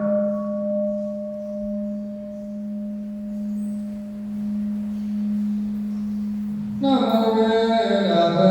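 Buddhist temple bowl bell ringing out after a single strike, a steady low tone slowly fading. Group chanting starts again about seven seconds in.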